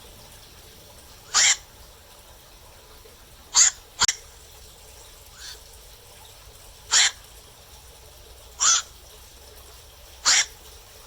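Black-crowned night heron giving short, harsh single calls, one every second or two, with two in quick succession about four seconds in.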